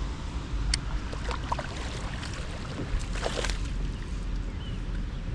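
Steady wash of rain and wind noise with a low rumble, broken by a few brief sharp sounds about a second in and around three seconds in.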